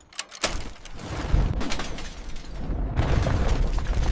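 Cinematic sound effects: a deep rumble sets in about half a second in and goes on with crackling and crashing noises over it.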